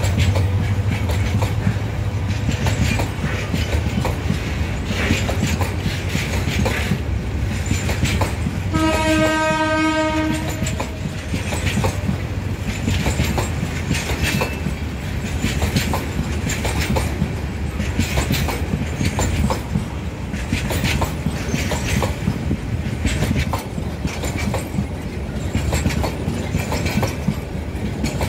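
A train running, with clicking and clattering of wheels over the rails and a steady rumble. About nine seconds in, a single horn blast of about two seconds, on one pitch.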